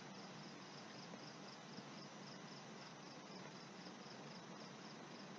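Faint insect chirping, a high pulse repeating evenly and steadily, over a light hiss.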